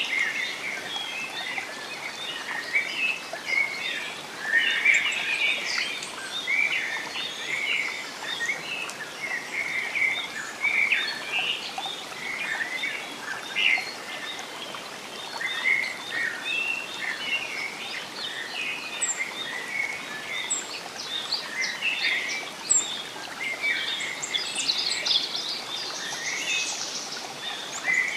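Forest ambience: many small birds chirping and singing continuously over a steady hiss of background noise.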